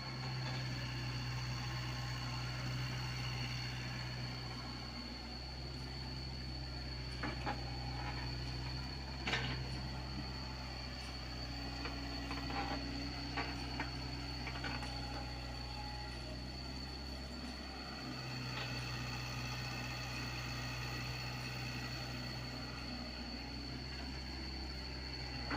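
Komatsu PC75UU mini excavator's diesel engine running steadily, its note dipping briefly now and then. A steady high whine sits above it. A few sharp knocks and clanks come through the middle.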